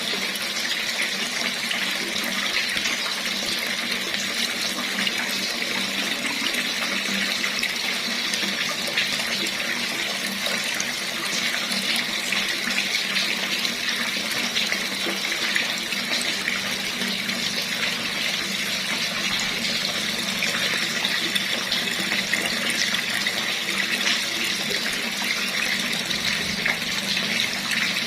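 Water running steadily from a tap, a continuous splashing hiss without a break.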